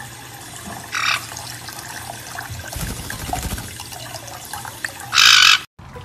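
Kitchen tap running into a glass bowl where a white-bellied caique is bathing. The caique gives a brief squawk about a second in and a louder, harsh squawk near the end.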